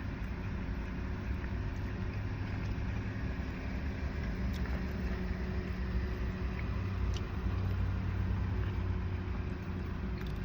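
A car's engine running steadily, a low even rumble with a faint hum, with a couple of faint ticks.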